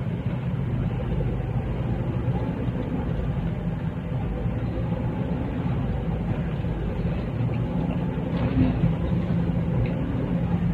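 Car-wash pressure sprayer running: a steady motor hum under the rush of the water jet hitting the car. The sprayer has one setting, full on.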